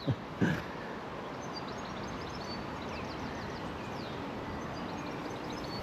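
Small birds chirping and tweeting in quick, repeated short calls over a steady rushing background.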